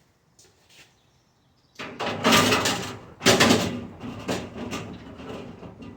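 Stainless steel dishwasher parts scraping and rattling as they are worked loose, starting about two seconds in, with two loud surges of scraping and then lighter rattling.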